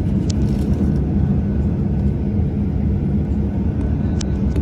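Boeing 737-800's CFM56 jet engines running steadily after start: a deep, even rumble with a faint steady whine above it.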